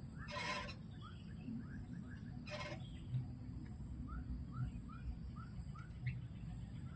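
A bird calling: a run of short, rising chirps at about two to three a second, with two louder, harsh noises in the first three seconds.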